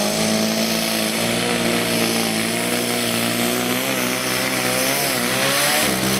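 Engine of a competition pulling machine running flat out at high revs under load down the track, its pitch holding nearly steady with slight wavering.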